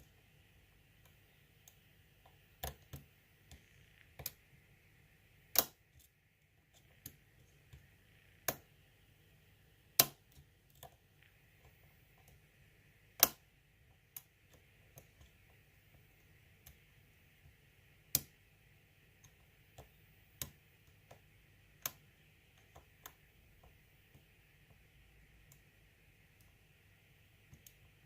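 Irregular sharp clicks of a lock pick working the pins of an ASSA six-pin euro cylinder. Most clicks are faint, and a handful of much louder clicks stand out among them. A faint steady hiss runs underneath.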